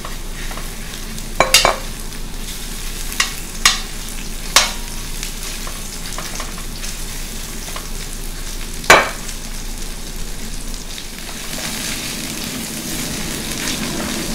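Chicken pieces sizzling in hot oil in a stainless steel wok, with a metal ladle knocking against the wok a handful of times, loudest about nine seconds in. The stirring gets louder over the last few seconds.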